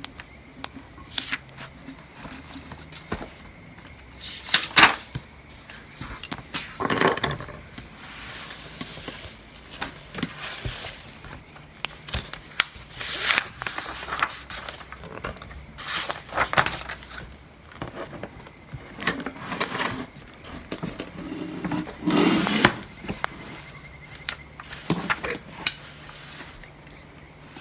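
Desk sounds of studying: irregular taps and clicks of a pen and stationery, with a few louder rustles and scrapes of paper or objects being moved.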